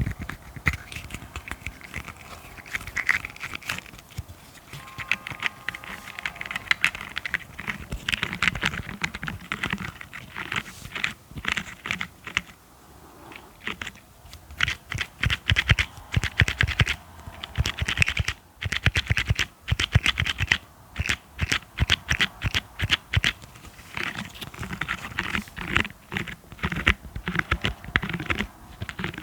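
ASMR tapping close to the microphone: fast runs of fingernail taps and clicks with some scratching, broken by brief pauses.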